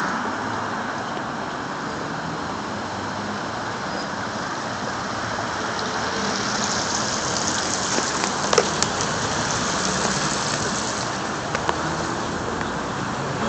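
Steady rain falling, an even hiss with a few faint clicks in the second half.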